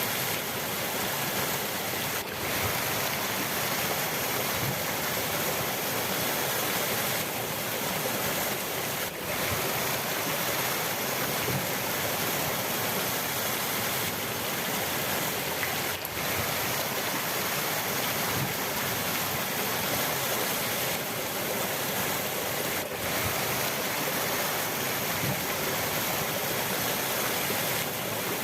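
Steady rush of flowing river water, an even, unbroken wash of sound with a few momentary dips in level.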